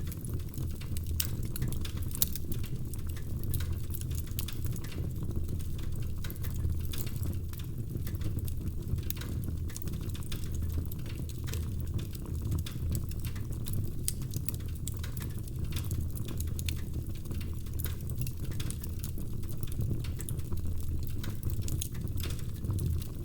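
Wood fire burning in a fireplace: logs crackling with frequent sharp, irregular pops over a steady low rumble of the flames.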